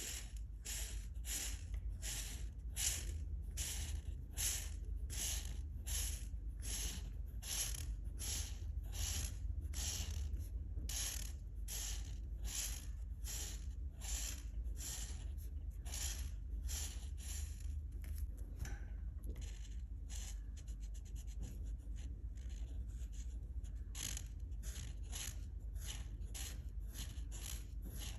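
Steady back-and-forth colouring strokes scratching on paper, about two and a half strokes a second. The strokes go softer for a few seconds about two-thirds of the way through, then come back strong.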